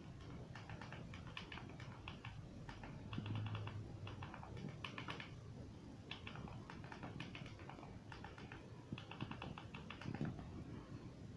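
Faint, rapid small clicks in short bursts of about half a second, repeating every second or so.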